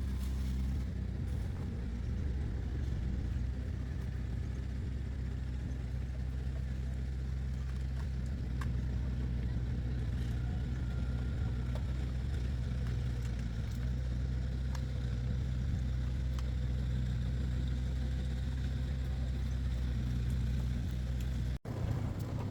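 Excavator's diesel engine running steadily at a constant speed, a low even hum, with a momentary break in the sound near the end.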